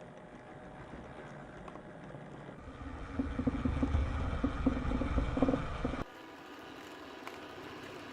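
Small electric motor running with a steady hum of several held tones. It grows louder and throbs from about three seconds in, then cuts off abruptly to a quieter, different steady hum.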